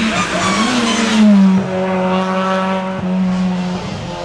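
Hill-climb race car engine at full throttle, loudest about a second and a half in where its pitch drops sharply, then holding a steady note that slowly falls.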